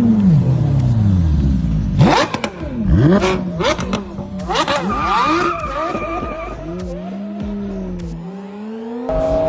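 Porsche supercar with a loud custom exhaust, revving hard in quick blips, its pitch sweeping up and down, then settling to a steadier note. Near the end a steady multi-tone horn starts.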